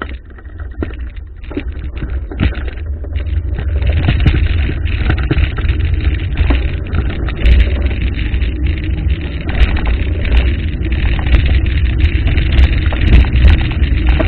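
Waterfall's rushing water, growing louder over the first few seconds and then holding steady, with a deep rumble and scattered small clicks.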